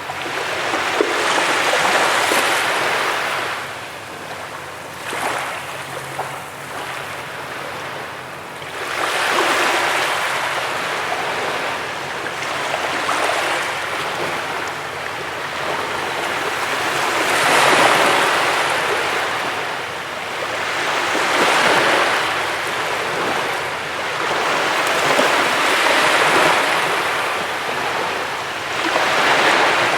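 Ocean waves breaking and washing up a beach, the surf swelling and falling away every four to eight seconds.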